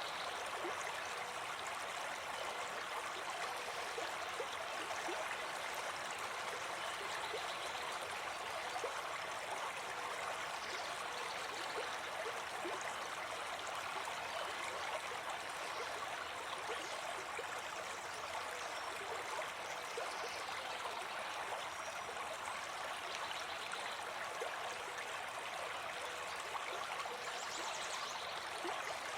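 A small brook babbling steadily over stones, a constant even rush of running water.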